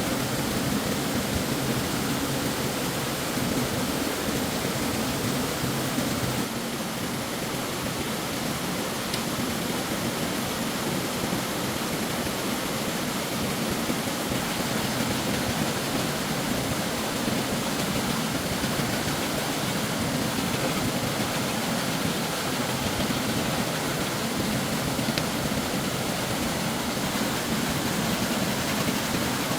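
Stream water rushing and splashing steadily, a constant even wash of noise with no breaks.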